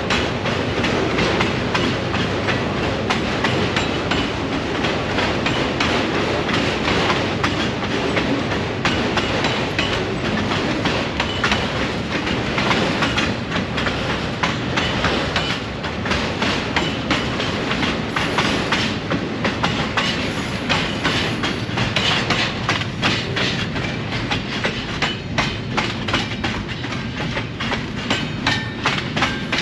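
Train passing close by, a steady rolling rumble with wheels clicking rapidly over the rail joints; the clicking comes thicker in the second half.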